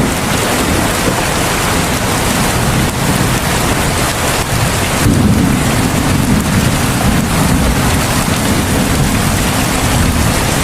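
Heavy rain falling steadily in a dense, even hiss, with a low rumble swelling in about five seconds in and carrying on.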